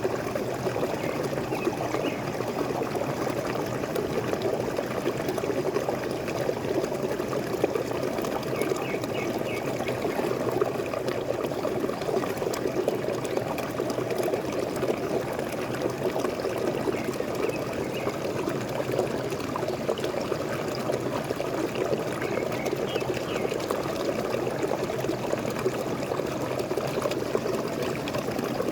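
Waterfall: water falling and splashing in a steady, even rush that does not let up.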